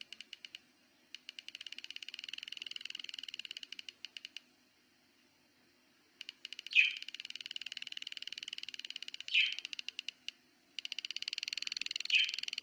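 QJE PS30SWIV switching bench power supply making a fast crackling, rapid ticking in bursts of a few seconds with short silent gaps, three sharper snaps standing out, over a faint low hum. It is a strange electrical discharge noise that appeared suddenly in this fairly new unit, a fault that goes away when the supply's noise reduction button is used.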